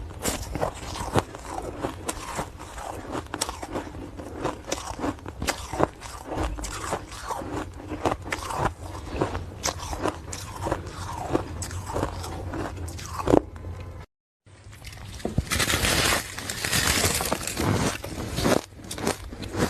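A person biting and chewing ice close up: a string of sharp, crisp crunches and cracks. About two-thirds of the way through the sound cuts out for a moment, then comes back as a denser, louder run of crunching.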